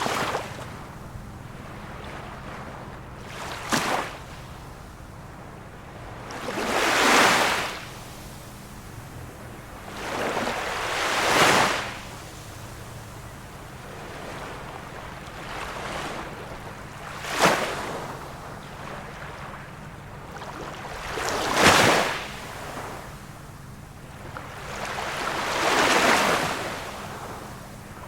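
Small waves of a calm sea lapping and breaking, one wash of water every three to five seconds, a few of them with a sharper splash.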